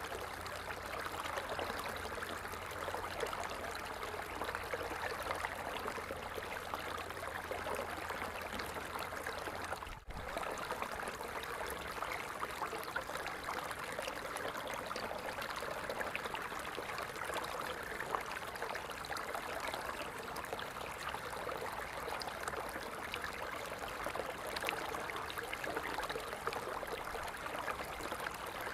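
Water falling and splashing steadily in an even rush, with a momentary drop-out about ten seconds in.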